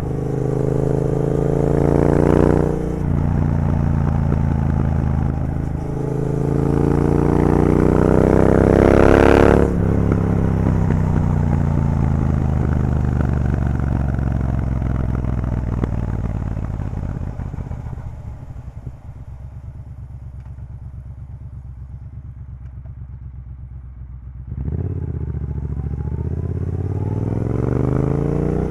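Triumph Bobber's 1200 cc parallel-twin engine through a decatted Vance & Hines exhaust, accelerating hard with two rising pulls broken by gear changes. The revs then fall away for several seconds, run quieter on a closed throttle, and rise again as the throttle opens about three-quarters of the way through.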